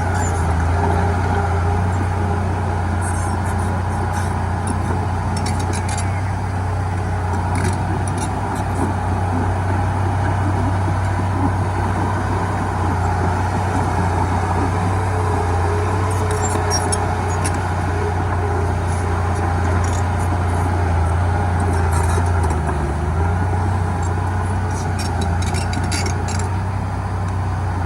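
Heavy diesel engine of earthmoving equipment running steadily under load, a continuous low drone with only slight changes, with scattered faint high clicks.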